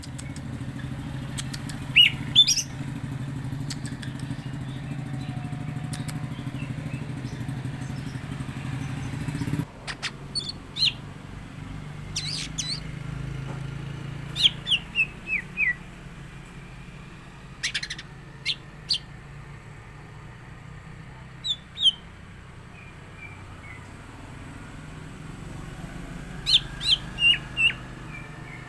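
Green leafbird (cucak ijo) calling in sharp, loud chirps and short runs of falling notes at intervals. A steady low hum underneath stops suddenly about ten seconds in.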